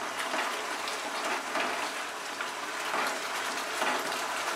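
Yogurt, poppy-seed and mustard-oil masala sizzling and crackling in a kadai over a high flame, while a wooden spatula gently stirs the fried eggplant through it.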